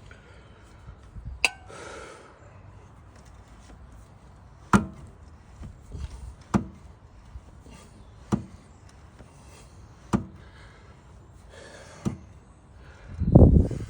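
A series of sharp single knocks, evenly spaced about one every two seconds, then a heavier, deeper thump near the end.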